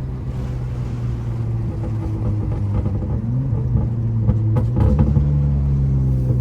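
Honda Accord V6 engine and road noise heard from inside the cabin while driving. The engine pitch climbs as the car accelerates about halfway through, and a few sharp clicks or knocks come near the end.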